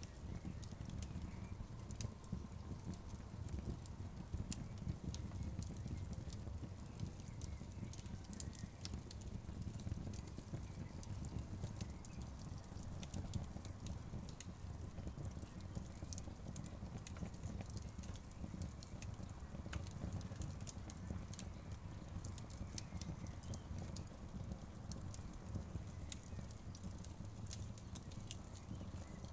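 Wood fire burning: a steady low rumble of flames with frequent sharp crackles and pops from the burning logs.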